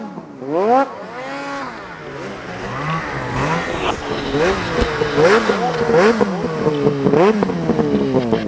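Snowmobile engines revving up and down in quick, repeated rises and falls. In the second half the revs of more than one machine overlap.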